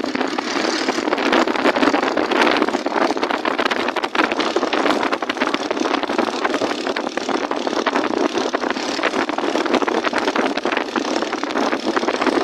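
A motor engine running steadily, with a dense, even rushing noise over it.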